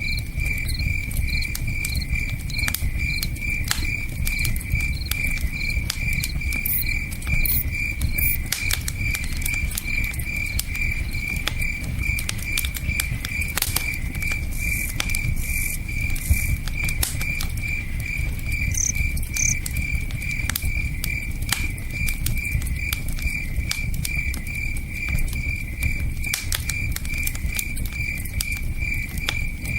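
Crickets chirping steadily, about two or three chirps a second, over a campfire crackling with scattered sharp pops and the low rush of a river.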